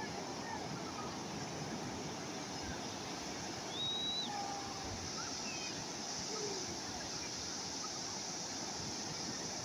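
Steady wash of calm sea waves, with a few faint, short bird calls over it.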